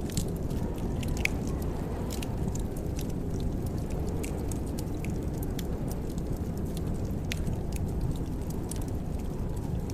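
Wood fire burning in a fireplace: a steady low rumble of the flames with irregular sharp crackles and pops every second or so.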